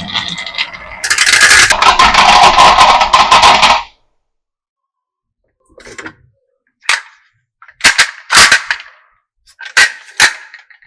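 Marbles rattling and clattering down a wooden marble run. It is a dense, loud rattle of many quick clicks that cuts off suddenly about four seconds in, followed after a pause by a handful of separate sharp clacks.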